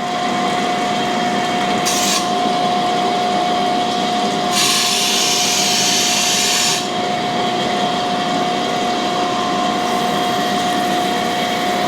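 Cam grinder's grinding wheel spinning with a steady whine while it is rough-dressed: two hissing passes of the dresser across the stone, a short one about two seconds in and a longer one lasting about two seconds from the middle.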